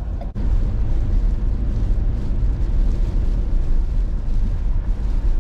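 Steady low rumble of a car on the move, road and wind noise loudest in the deep bass, with a brief dropout just under half a second in.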